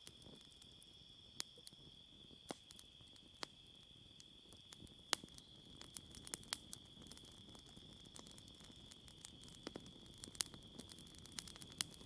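Campfire crackling with sharp, irregular pops that come thicker after about five seconds, over a steady high-pitched chorus of crickets.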